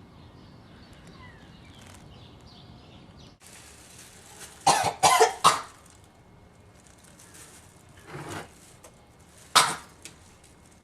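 A woman coughing: a quick run of three or four coughs about halfway through, then two more single coughs near the end.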